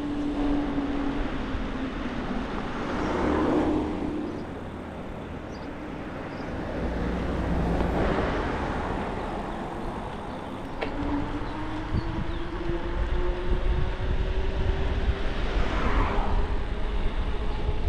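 E-bike motor whining steadily under pedal assist, its pitch creeping up slowly near the end, over the rumble of wind and tyres while riding. Traffic passes by a few times.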